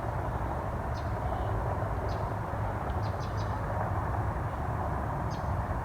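Steady low outdoor rumble, with small birds giving short, high chirps scattered through it.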